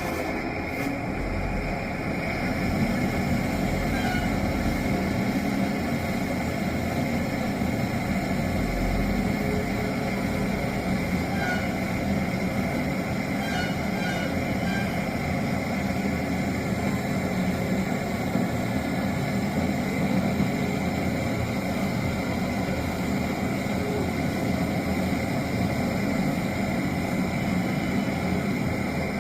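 Voltas deep freezer compressor running with a steady, unbroken hum.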